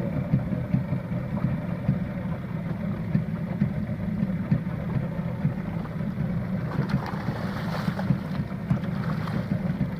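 Fishing boat's engine running with a steady low hum, with a brief rush of louder noise about seven to nine seconds in.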